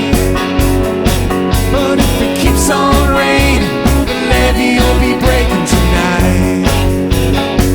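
A rock band playing live: a steady drum beat under bass and guitars.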